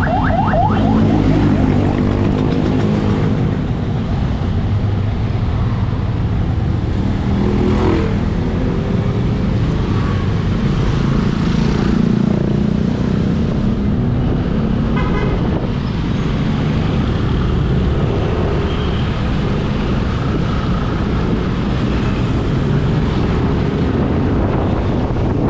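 Motorcycle engine running in dense road traffic, with its pitch rising and falling as it speeds up and slows down, over steady road and wind noise.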